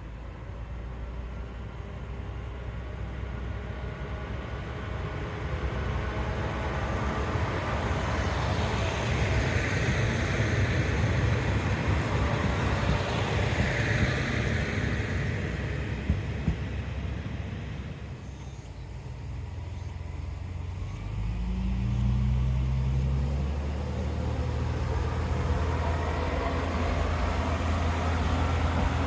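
Diesel railcar passing by, its running noise building to a peak around the middle and falling away, followed in the later part by a low, steady engine drone.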